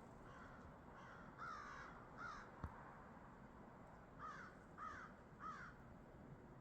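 Crows cawing faintly: two caws about a second and a half in, then a run of three evenly spaced caws about four seconds in, with fainter ones before. A single sharp click falls between them.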